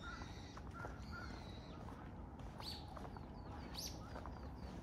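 Several small birds calling: short high whistled notes and chirps, with two sharper chirps a little past the middle, over steady low background noise.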